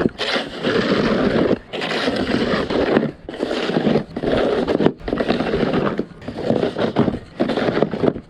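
Snow shovel scraping across pavement in repeated pushes, each about a second long with short breaks between, clearing a thin layer of snow.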